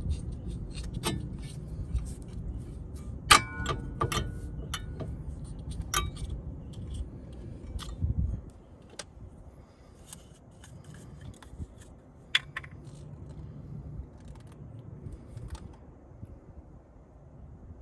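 Metal tools and parts clinking and rattling as they are handled, with one loud ringing metal clink about three seconds in. A low rumble underneath stops suddenly about eight seconds in.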